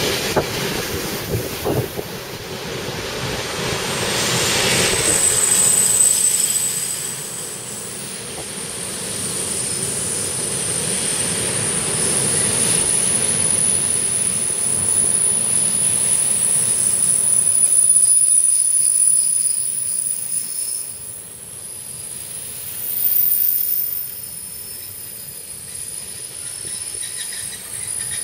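Container freight train rolling past on the track, the wagons' wheels giving a steady rolling noise and a thin high-pitched squeal, with the loudness rising and falling as the wagons go by.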